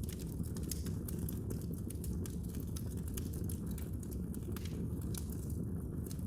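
Wood fire burning in a fireplace, a steady low rumble of the flames with irregular sharp crackles and pops.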